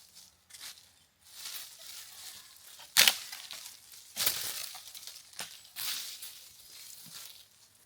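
Crunching and rustling noises with one sharp crack about three seconds in, the loudest moment, followed by several shorter crunches.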